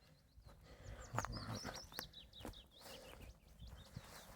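A small songbird singing a fast run of short, high chirping notes. A few sharp knocks sound about a second in and around two seconds.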